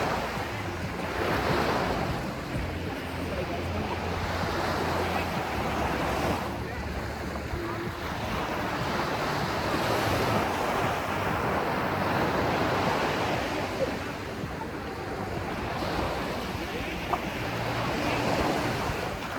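Ocean waves washing in, swelling and easing every few seconds, with wind on the microphone.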